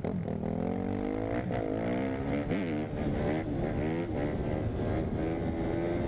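Four-stroke dirt bike engine revving hard, its pitch swinging up and down with quick throttle changes and shifts, then holding a steadier, slowly climbing note. The reactor takes the bike for a Suzuki RM-Z250 rather than a 450.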